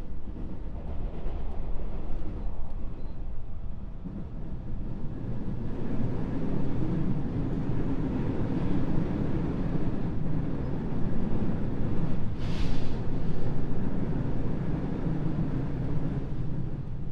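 Running sound inside a JR West 221 series electric train's motor car: a steady rumble of wheels and running gear on the track that grows louder about six seconds in. A short burst of noise breaks through about two-thirds of the way.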